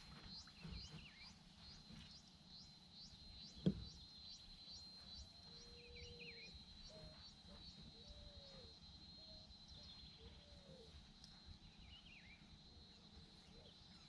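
Faint birdsong: a few short high chirps and several low, curved whistled notes through the middle, over a steady high buzz with a regular pulse. One sharp knock comes just before four seconds in.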